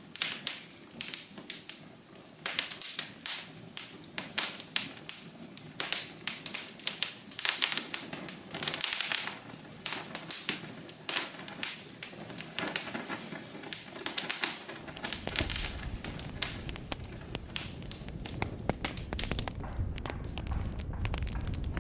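Wood fire in a fireplace crackling, with many sharp, irregular pops and snaps. About 15 seconds in, a steady low rumble of the flames joins the crackling.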